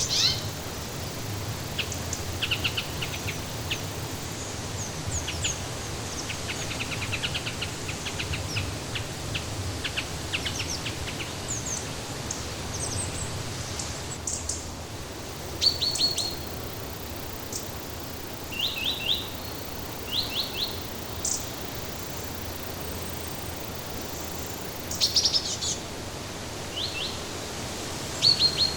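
Songbirds chirping and trilling over a steady rushing background hiss. The calls come as many quick short notes, thickest in the first ten seconds, then as separate bursts of trills every few seconds.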